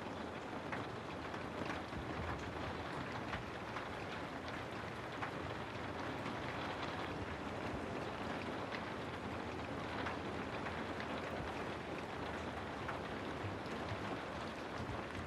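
Steady rain falling, with scattered drops pattering on a surface.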